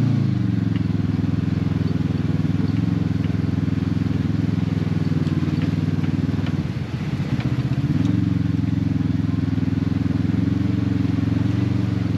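Side-by-side UTV engine running steadily under way. About two-thirds of the way through the throttle comes off briefly: the engine note drops, then climbs back.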